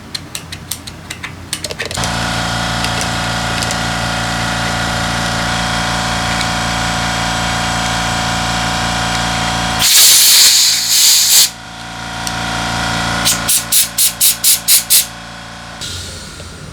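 Small air compressor or motor running steadily, with compressed air or cleaner spray hissing in one long blast and then a quick series of short bursts, as when carburetor passages are blown out during cleaning. A few light clicks come before the machine starts.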